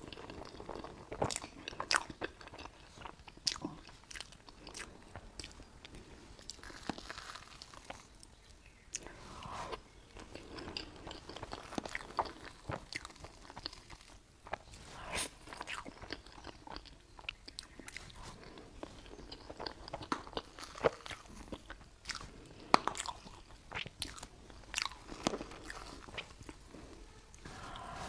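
Close-miked eating: biting into and chewing soft mocha cake desserts, with many short, sharp clicks scattered throughout.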